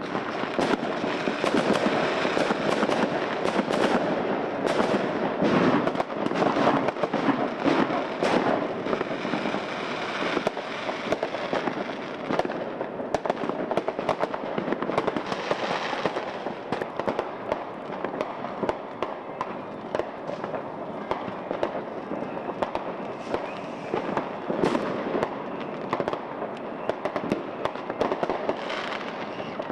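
Fireworks going off in many places at once: a continuous barrage of overlapping bangs and crackles, a little denser and louder in the first third.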